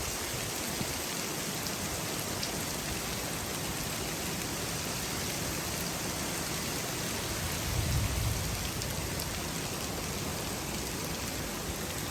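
Steady rain falling, a constant even hiss, with a brief low rumble about eight seconds in.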